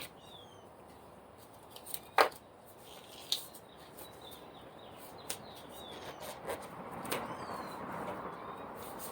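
Disposable kitchen glove being pulled on and handled: faint rustling that grows slowly louder, with a few sharp snaps, the sharpest about two seconds in.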